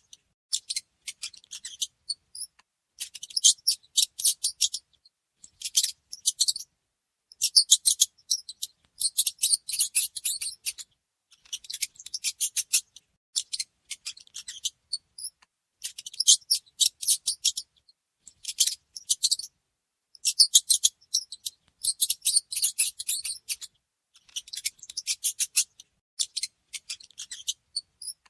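Mice making rapid, high, dry clicking and scratching sounds in bursts of a second or two, with short pauses between, and a few faint brief squeaks.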